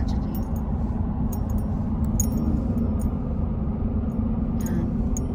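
Steady low road and engine rumble inside the cab of a moving Ford F-150 pickup, with a constant hum and scattered light clicks and rattles.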